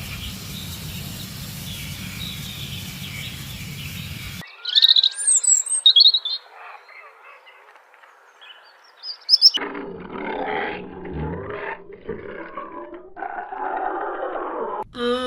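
A string of animal calls: a few loud, high chirps about four to six seconds in, then a long, rough call from about ten seconds in that breaks off and restarts several times.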